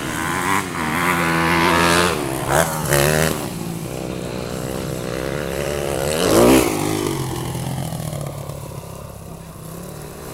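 Motocross motorcycle engines revving hard as the bikes ride the track, the pitch rising and falling with each throttle blip and shift; loudest about two to three seconds in and again about six seconds in as bikes pass close.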